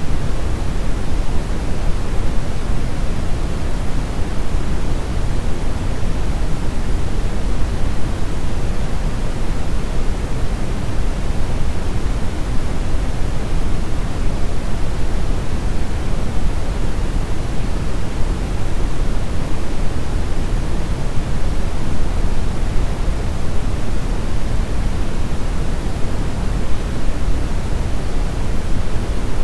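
Synthetic brown noise: a steady, even rushing hiss weighted toward the deep end, with no changes.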